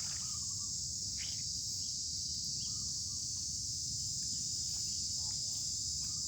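Insects chirring in a steady, unbroken high-pitched chorus, over a low rumble, with a few faint short chirps scattered through.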